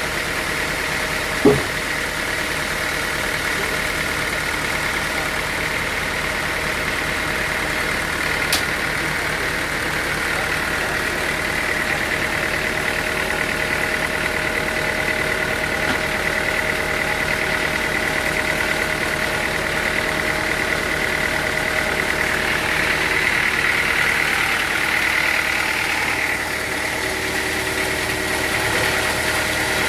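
Sawmill machinery running steadily with a constant hum, and a single sharp knock about a second and a half in.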